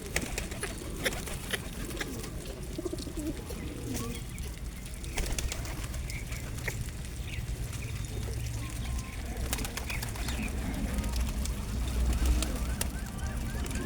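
Birds at feed giving low wavering calls, with many scattered short clicks and taps.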